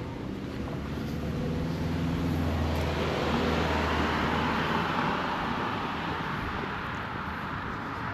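A car passing on the road: its engine hum first, then tyre noise that swells to a peak about halfway through and fades away.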